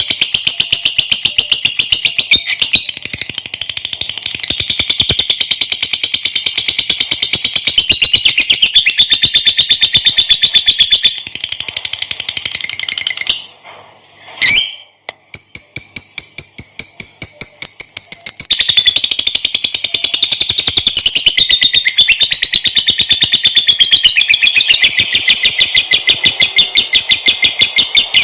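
Lovebird singing a long, rapid, high-pitched chattering trill (the 'ngekek' song), with a brief break about halfway through before it starts again.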